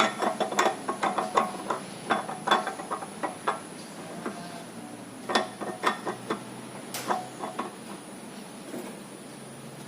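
Irregular metal clicks and knocks of tools and parts as a racing camshaft is fitted into a 4G13 SOHC cylinder head, busy for the first few seconds and then sparser.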